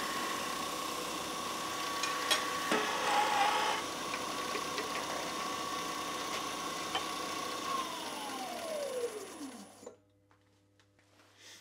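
Wood lathe running with a steady motor whine while a turning tool cuts spinning pine, the cutting loudest and roughest a few seconds in. About eight seconds in the lathe is switched off, and its whine falls in pitch as it spins down, stopping shortly before the end.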